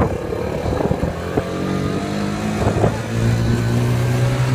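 Small motorbike engine running, its note rising a little and getting louder about three seconds in, with a few sharp knocks along the way.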